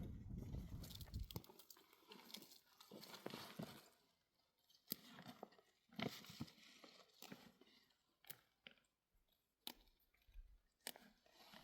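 Near silence broken by faint, scattered crunches and clicks.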